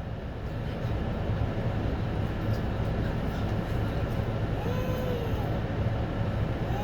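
City bus driving, its engine and road noise making a steady low drone, with a short whining glide in pitch about five seconds in.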